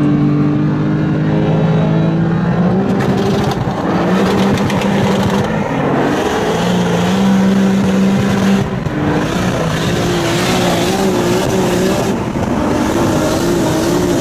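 Turbocharged S38 straight-six of a 900-horsepower BMW M5 E34 under full-throttle acceleration, heard from inside the cabin. The engine note climbs and breaks at about four upshifts, roughly every three seconds, over heavy road and wind noise.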